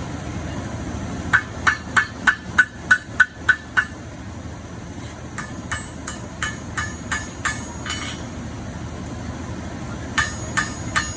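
Hand hammer striking hot steel bar on an anvil, bending it into a hook: three runs of ringing strikes at about three a second. The first run is the loudest, the middle run softer, and the third starts near the end.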